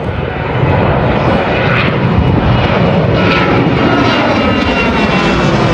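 Airplane taking off: a loud engine rumble that builds over the first second, then holds steady, with a faint high whine in it.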